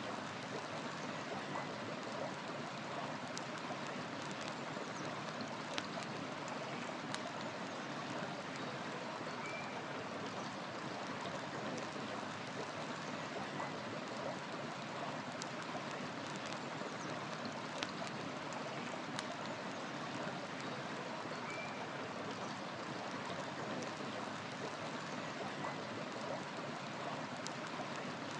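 River water rushing steadily, with firewood crackling in scattered sharp pops and a couple of brief, faint bird chirps.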